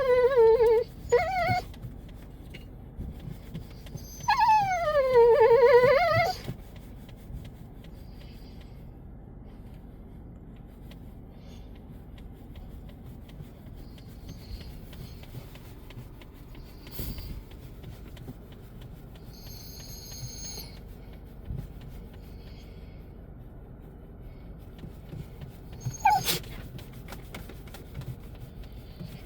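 Cocker spaniel whining excitedly at seeing someone it knows. A few short high-pitched cries come at the start, then one long whine about four seconds in that dips in pitch and rises again. After that it is mostly quiet with faint small sounds, and one more sharp whine comes near the end.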